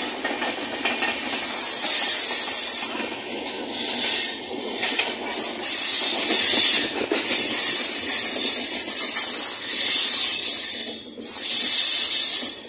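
Express passenger train running at speed, heard from aboard: a loud rush of wind and wheel-on-rail noise, with a thin high wheel squeal coming and going. The rush dips briefly twice.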